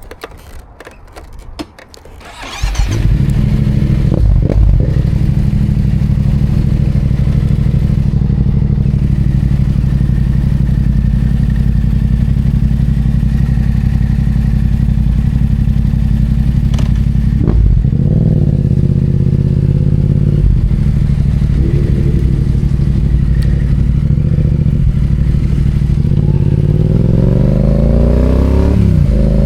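Yamaha FZ-07's parallel-twin engine started about two and a half seconds in, after a few clicks and knocks, then idling steadily with a few brief throttle blips, the last one near the end.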